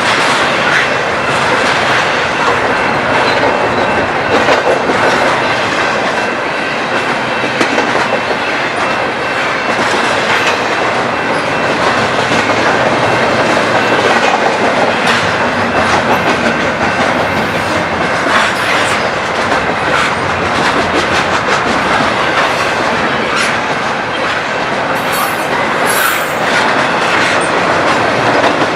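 Long BNSF intermodal freight train rolling past at a grade crossing, a steady dense rumble of cars and wheels clattering over the rails, with faint thin wheel squeal held underneath.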